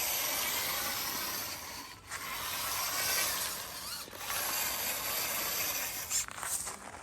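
Small motor and gears of a radio-controlled toy tractor whirring, with pitch that wavers as it drives; the sound dips briefly about two and four seconds in.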